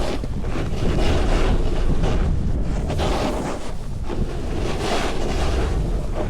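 Wind buffeting the microphone while riding a snowboard, over a continuous hiss of the board sliding on snow. The hiss swells and fades every second or so.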